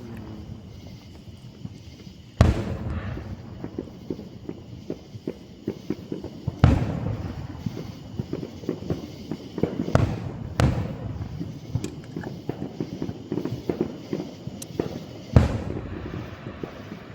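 Aerial fireworks show: five loud shell bursts booming a few seconds apart, two of them close together midway, with many smaller pops and crackles between them.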